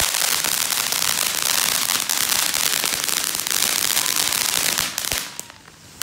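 Consumer ground fountain firework burning with a dense crackling hiss, which dies away about five seconds in.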